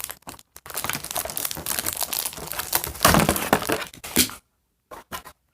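Doll packaging crinkling and rustling as it is handled, in dense crackly bursts that stop about four seconds in, followed by a few light clicks.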